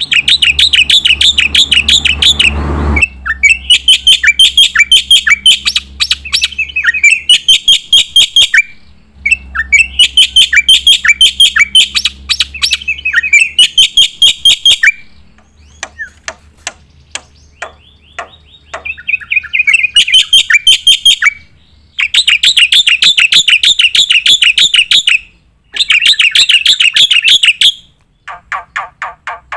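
Black-winged myna (Javan white starling) in full song: loud, fast runs of rapidly repeated chirping notes, delivered in bursts of a few seconds with short pauses between.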